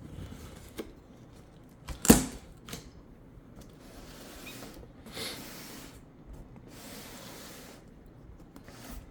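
Blade cutting along the sealing tape of a large cardboard box, making long scraping, hissing strokes, with a sharp knock against the box about two seconds in.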